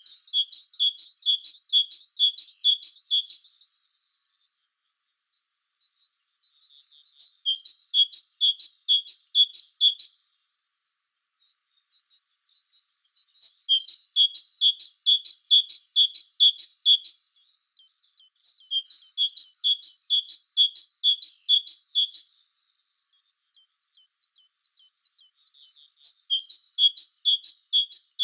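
A songbird singing a high two-note phrase, the higher and lower notes alternating quickly. Each run of the phrase lasts about three to four seconds, and there are five runs with silent pauses between them.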